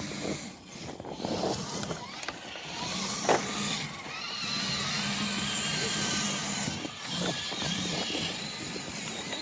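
Electric motors and gears of radio-controlled crawler trucks whining as they drive, the pitch wavering with the throttle. There are scattered clicks and knocks, the sharpest about three seconds in.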